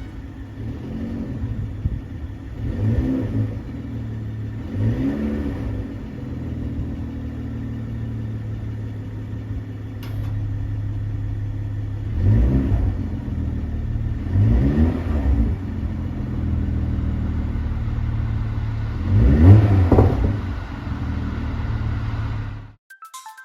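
BMW M340i xDrive's turbocharged inline-six idling, its exhaust note rising and falling as the throttle is blipped five times, loudest on the last rev; the sound cuts off shortly before the end.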